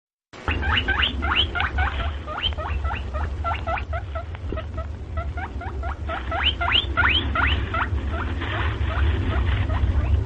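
A small animal giving a rapid run of short, rising squeaks, about three a second, over a steady low rumble.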